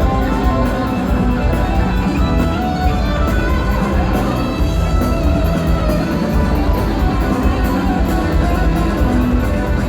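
Live rock band playing an instrumental passage, electric guitar to the fore over bass and drums, with no singing.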